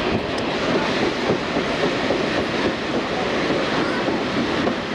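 Passenger train rolling along the track, heard from on board a coach: a steady rumble and rattle of the wheels on the rails.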